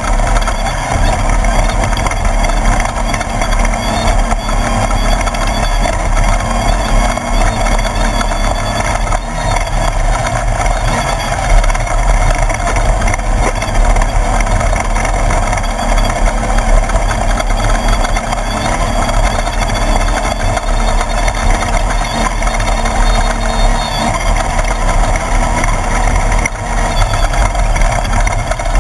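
Class 1/2-1600 desert race car's air-cooled VW 1600 flat-four engine running, loud and steady without letup.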